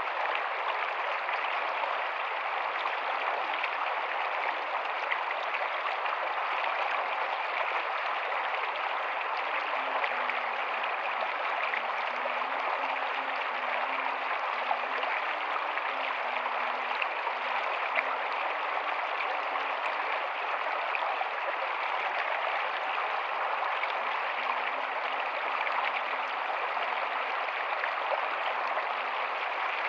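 Rocky stream flowing steadily, water running and splashing over rocks in an even, unbroken rush.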